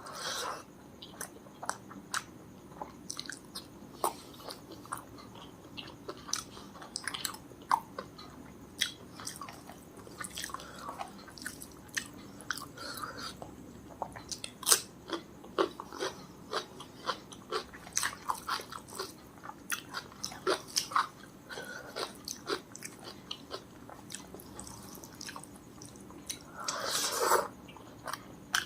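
Close-miked chewing and biting of food, with many short, sharp mouth clicks throughout and a louder, noisy sound about a second long near the end.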